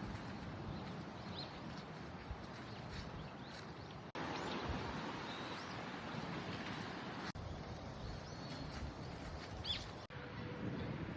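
Outdoor ambience: a steady rushing noise, like wind on the microphone, with a few brief bird chirps. The sound drops out for a moment about four, seven and ten seconds in, where the recording is cut.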